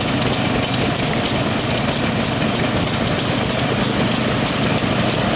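Vintage stationary engines running steadily at idle, a continuous low engine sound.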